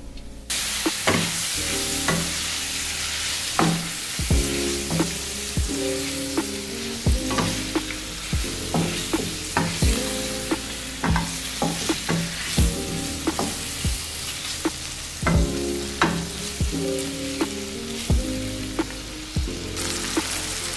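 Tripe, sliced onion and spices frying in a stainless-steel pan with a steady sizzle that starts about half a second in. A wooden spatula stirring the pan makes repeated sharp clacks against the steel.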